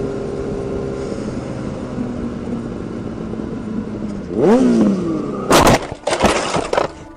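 Motorcycle engine running steadily. About four seconds in, a whine rises and falls. Soon after comes a loud crash impact, followed by about a second of scraping and clattering as the bike goes down.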